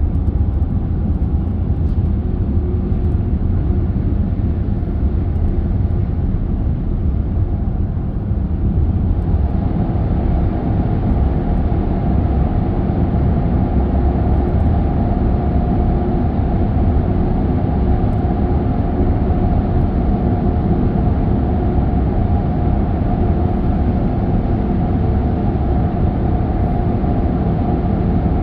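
Car driving along a road: a steady low rumble of tyres and engine, turning slightly brighter and harsher about nine seconds in.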